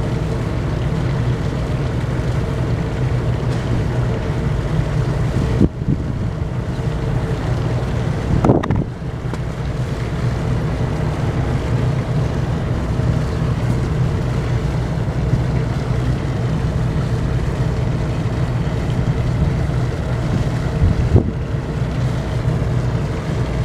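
Shikoku Kisen ferry Asahi's engines running with a steady low hum as the ship leaves harbour, with wind buffeting the microphone and a few brief knocks.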